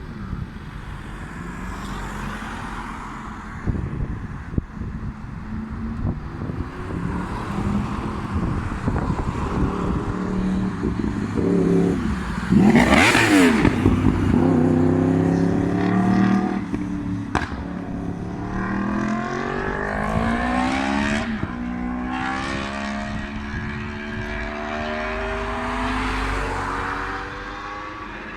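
2015 Yamaha R1's crossplane inline-four engine accelerating hard past the microphone, its pitch climbing through the gears in repeated rises. It is loudest about halfway through, where the pitch falls sharply as the bike goes by.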